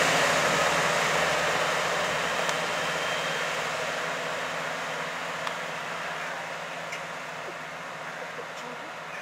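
Running noise of a First Great Western diesel multiple unit that has just passed, fading steadily as it draws away down the line, with a few faint clicks along the way.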